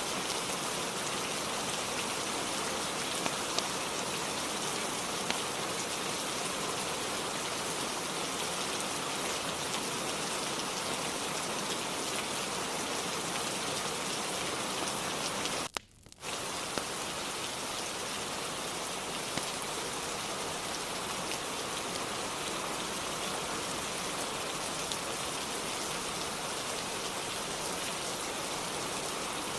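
Steady heavy rain falling, with a few faint single ticks. About halfway through the sound cuts out for about half a second, then comes straight back.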